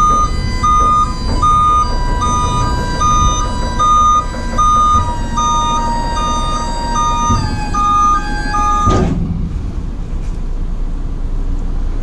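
Steady electronic beeping, about one and a half beeps a second, over a held tone that steps down in pitch twice, with a low rumble underneath. It all cuts off suddenly about nine seconds in.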